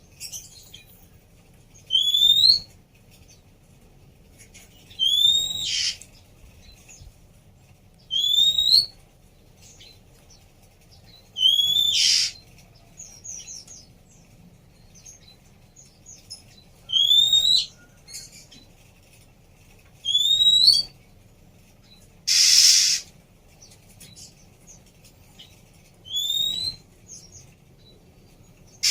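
A female oriental magpie-robin (kacer) gives a short upslurred whistle, repeated about every three seconds. Twice near the end it makes a harsh, rasping burst instead.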